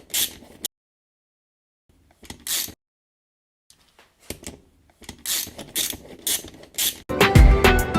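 Short, sharp mechanical clicks and rattles in a few separate bursts, with stretches of dead silence between them.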